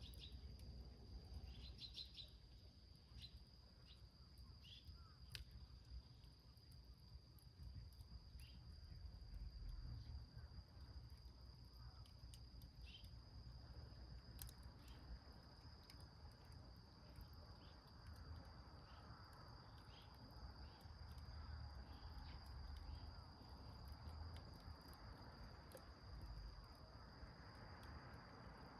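Crickets trilling in one steady high note, with faint scattered crackles and pops from a small wood fire burning in a tin can.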